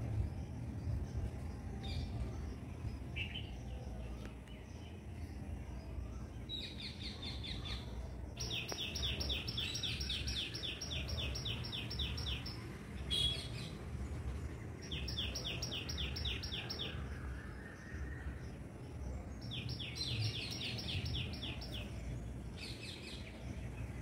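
A bird calling in fast runs of short, high chirps, several bursts of one to four seconds each, over a steady low rumble of background noise.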